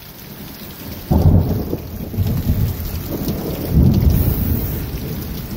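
Thunder from a lightning flash, a low rumble that starts suddenly about a second in and swells again near four seconds. Steady rain hisses underneath.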